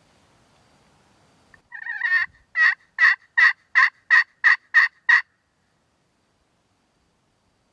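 Turkey yelping: a short raspy run of notes, then a string of eight evenly spaced yelps, about three a second, that stops abruptly.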